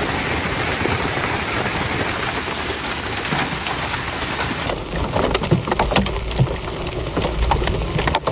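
Thunderstorm downpour beating down in a steady loud rush. About five seconds in the sound changes to many sharp, scattered hits over a low rumble.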